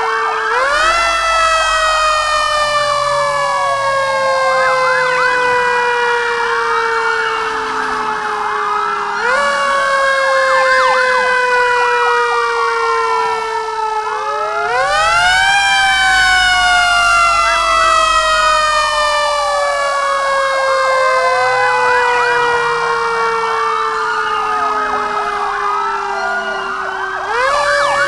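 Ambulance siren sound effect: a steady tone that jumps up and then slowly falls over several seconds, restarting four times at uneven intervals, with quicker rising and falling wails crossing over it.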